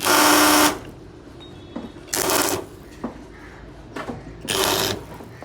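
Three short bursts from a pneumatic workshop tool, about two seconds apart, the first the longest and loudest, with a few small metal clicks between them.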